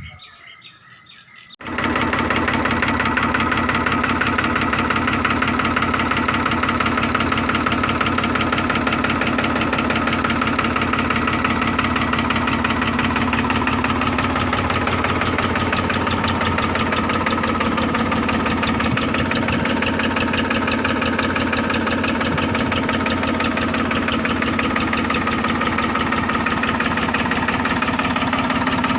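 Escort Powertrac 445 DS Plus tractor's diesel engine idling steadily. It cuts in abruptly about two seconds in, after a moment of faint birdsong.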